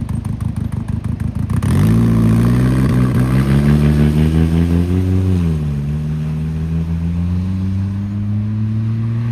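Car engine with a rough, loud exhaust, pulsing unevenly at first, then accelerating with its pitch rising steadily and dropping at a gear change about five seconds in. It sounds terrible.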